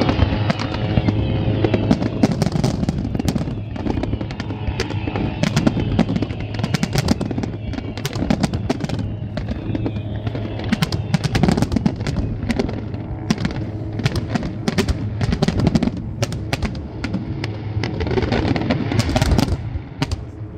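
Fireworks display: a continuous run of sharp bangs and dense crackling from bursting shells, with a thick cluster of bangs near the end. A steady low tone runs underneath.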